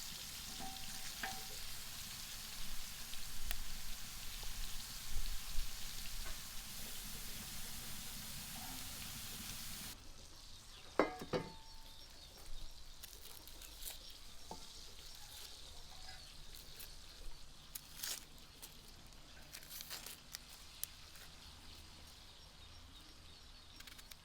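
Food sizzling as it fries on hot metal. About ten seconds in the sizzle cuts off abruptly, giving way to a quieter background with a few scattered knocks and clinks.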